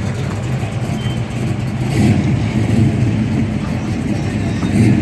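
A car engine running nearby, a steady low drone that swells a little louder around two seconds in and again near the end.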